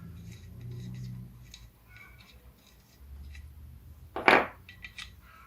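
Small metal parts being handled, with light clicks and clinks and one loud sharp knock about four seconds in.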